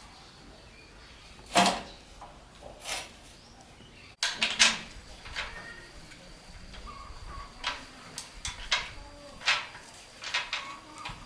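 Irregular metallic clinks and knocks, like tools and engine parts being picked up and set down, with a sharp break about four seconds in.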